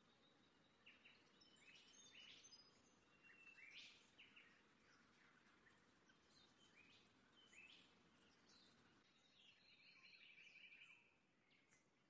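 Near silence with faint birds chirping in short repeated calls and a rapid trill about ten seconds in, over a low outdoor background hiss.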